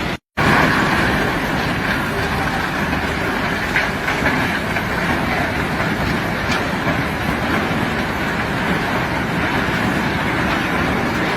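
Steady, loud rumble and rattle of rock being unloaded by heavy machinery, cutting out for an instant just after the start and then running on unchanged.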